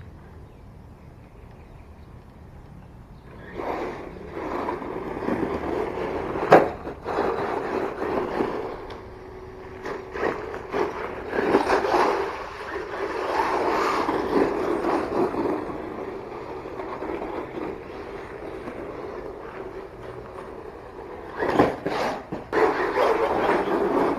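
1/10-scale HSP Brontosaurus RC monster truck with a brushless motor being driven over rough ground: motor and tyre noise surging up and down as it accelerates and slows, with sharp knocks from bumps or landings about six seconds in and again near the end.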